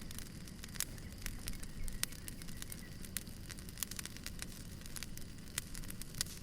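Wood fire burning with irregular sharp crackles and pops over a low steady rumble.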